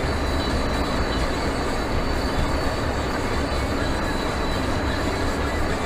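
Steady rumble of a moving car's engine and tyres on the road, heard from inside the car.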